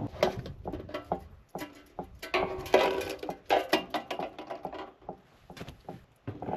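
Irregular light knocks, clicks and clatter, several a second, thinning out near the end.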